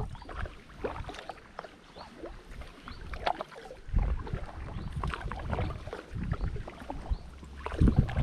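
Kayak paddle strokes in the water, with splashing and dripping. Heavier low surges come about every four seconds: at the start, about four seconds in, and near the end.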